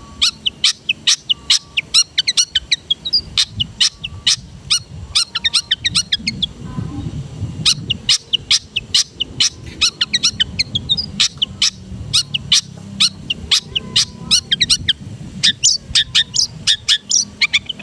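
Long-tailed shrike (cendet) singing a fast, varied song of sharp high chips and short whistled notes, several a second, with a brief pause about six and a half seconds in. A low rumble runs underneath.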